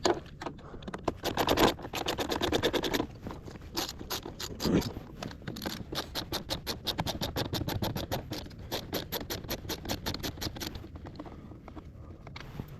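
Ratchet wrench with a 7mm socket clicking in a fast, even run as bolts on a car door panel are backed out. The clicking stops near the end.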